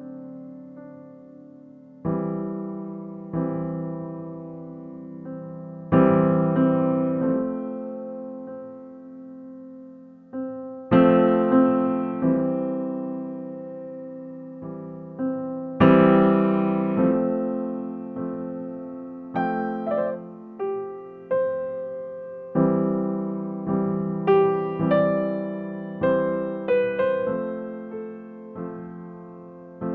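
Background music: slow solo electric piano, chords and single notes struck every second or so and left to ring away.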